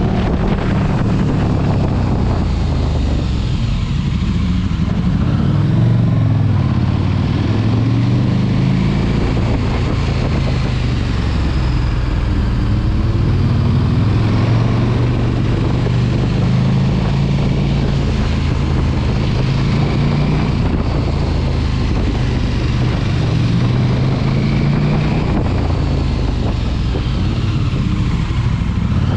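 Sport motorcycle engine running under way, its pitch rising and falling again and again with throttle and gear changes, over a steady rush of wind noise.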